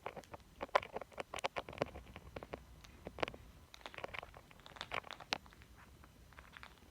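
Lutino Indian ringneck parrot playing with a toy: irregular sharp clicks, taps and scratches, growing sparser near the end.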